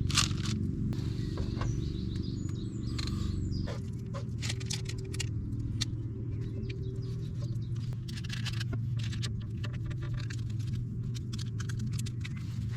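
Campfire crackling with irregular snaps and ticks over a steady low hum.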